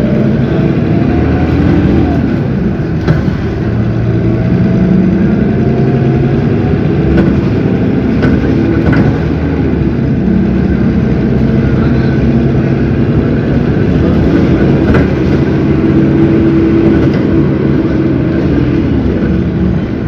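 Cummins ISB 6.7 straight-six turbodiesel of an Agrale MT17 bus running under way, its note rising and falling with speed.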